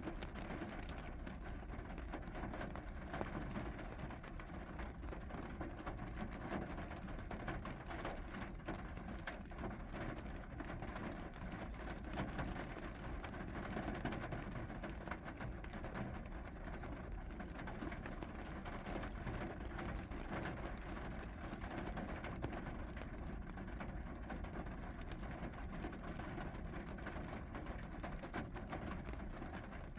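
Steady rainfall, an even hiss with many scattered drops ticking on a surface.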